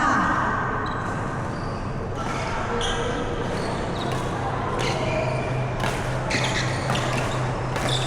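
Badminton rally on an indoor court: sharp racket hits on the shuttlecock and short squeaks of shoes on the court floor, irregularly spaced, over a steady low hum.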